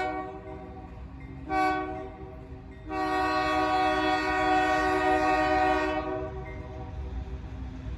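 Union Pacific diesel locomotive's air horn sounding a steady multi-note chord: a long blast cuts off at the start, a short blast comes about a second and a half in, then a long blast of about three seconds. This is the short-long close of the grade-crossing signal. The train's low rumble runs underneath.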